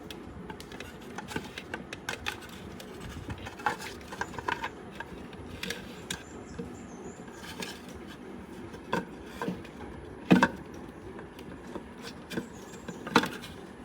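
Light clicks and knocks of hard plastic and metal parts being handled and fitted together while a mixer grinder's motor is reassembled, with two louder knocks in the later part.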